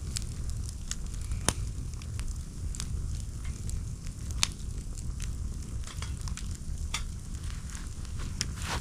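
Wood campfire crackling, with sharp snaps and pops every second or so, the loudest about one and a half seconds in.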